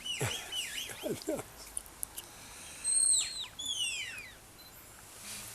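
Shepherd's whistle commands to a working sheepdog: short dipping whistles near the start, then a loud held high note that falls away about three seconds in, followed by a run of quick falling whistles.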